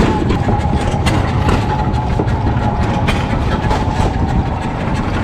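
Heavy engine running steadily: a low rumble with a faint, steady whine above it and scattered clicks.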